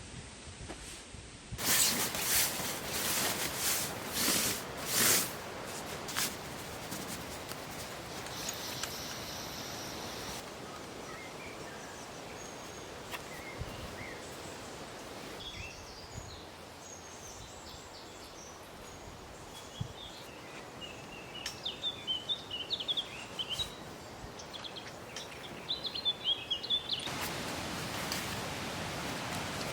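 Woodland ambience: a few seconds of loud rustling handling noise near the start, then a steady hiss with small birds chirping and twittering, busiest in the later part.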